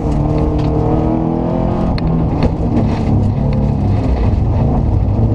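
Subaru Impreza 2.5 RS rally car's flat-four engine running hard at speed on a gravel stage, heard from inside the cabin, its pitch sagging slightly and then climbing again. Scattered sharp clicks and knocks sound over it.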